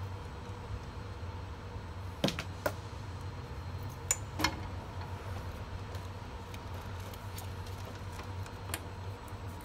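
A few sharp metallic clicks and clinks of hose fittings and parts being handled, four of them close together in the first half, over a steady low hum.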